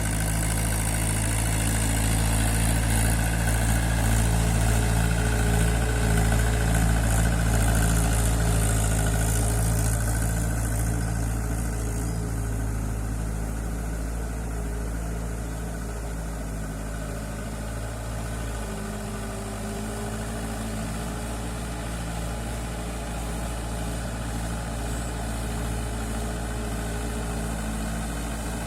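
Mahindra 475 DI tractor's four-cylinder diesel engine running steadily as the tractor puddles on cage wheels, somewhat louder for the first ten seconds or so.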